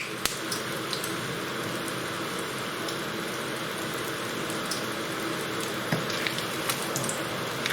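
Oil sizzling steadily in a frying pan, infused with whole spices, with a few light clicks of a utensil in the pan.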